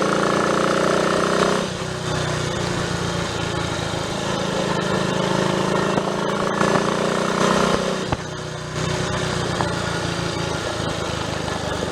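Triumph Tiger Cub's single-cylinder four-stroke engine running on the road under way, its note climbing slightly at first. The level drops about a second and a half in, then dips again briefly about eight seconds in before picking up.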